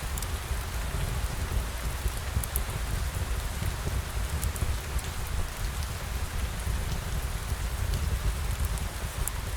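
Steady rain falling, a continuous hiss with a low rumble underneath and scattered sharp ticks of individual drops.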